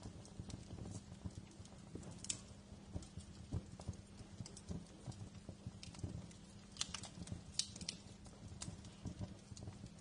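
Wood fire crackling in a fireplace: irregular sharp pops and snaps over a low, steady rumble of burning, with a few louder snaps about two seconds in and again around seven seconds.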